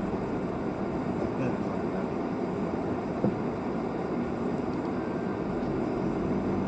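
Steady drone of a car's engine and road noise while driving.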